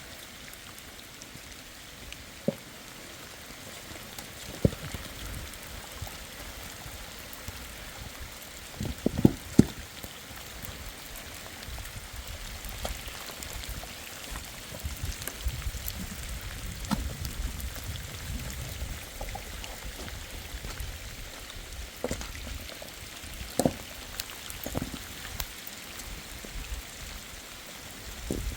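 Steady rain falling, with a few sharp knocks now and then, the loudest a quick cluster about nine seconds in.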